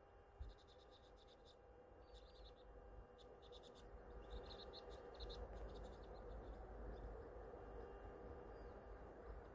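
Faint, high-pitched chirping of small birds in quick runs over a low rumble. There is a soft thump about half a second in.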